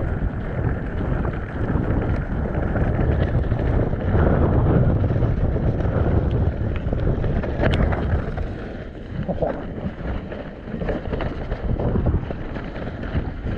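Wind buffeting the microphone over the rumble of a mountain bike riding a wet, muddy trail, with scattered sharp clicks and knocks from the bike, one standing out a little past halfway.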